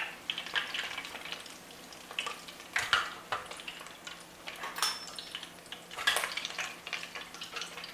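Breaded cheese grits deep-frying in hot oil in a deep fryer, crackling and sizzling steadily. A few sharper, louder sounds stand out, the strongest about three and six seconds in.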